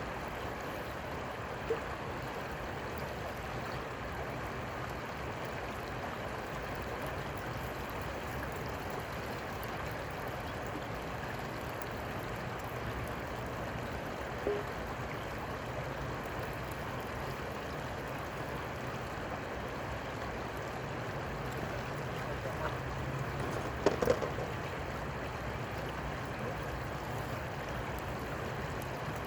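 Steady rush of flowing river water, with a few brief knocks: one about 2 seconds in, one about 14 seconds in, and a short cluster about 24 seconds in.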